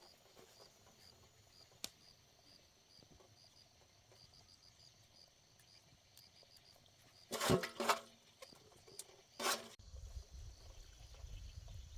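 Insects, likely crickets, chirping in a steady, fast, regular pulse. Two short, loud sounds break in, about seven and a half and nine and a half seconds in, and a low rumble starts near the end.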